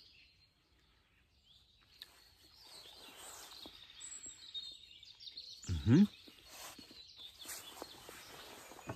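Faint birds chirping and small handling clicks, with one short hummed 'mm' from a man about six seconds in as he tastes the smoked venison jerky.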